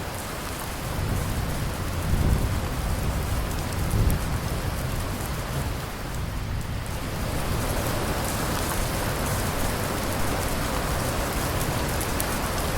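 Steady heavy rain falling on surfaces, with low rumbles of distant thunder swelling about two seconds in and again around four seconds.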